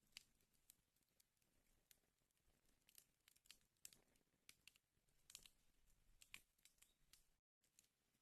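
Wood fire crackling in a fireplace: faint, irregular pops and snaps of burning wood.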